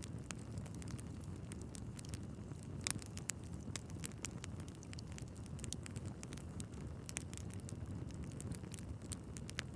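Wood fire burning in a fireplace: a steady low rumble of flames with frequent irregular crackles and pops from the logs, a few sharper pops about three and seven seconds in.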